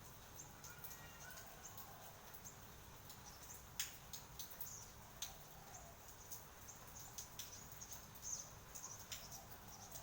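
Faint rain, with drops tapping at irregular intervals, the sharpest about four seconds in, over steady high-pitched chirping from birds or insects.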